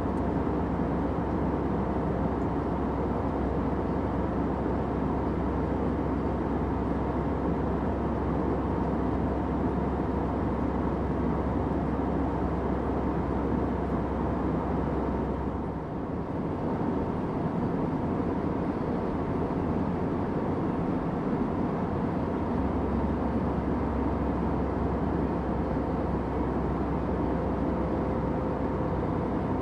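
Steady airliner cabin noise: a constant rushing drone from the engines and airflow, with a low hum and faint steady tones. It dips briefly just past halfway, and the deepest hum drops out for a few seconds before returning.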